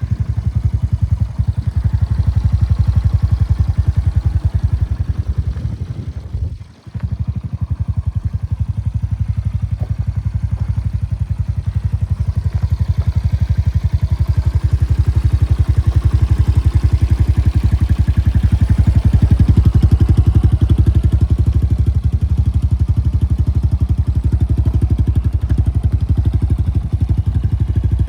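GIO XZ250R dirt bike's 250 cc single-cylinder engine running steadily, with a rapid low exhaust pulse. The sound briefly drops out about seven seconds in, then carries on.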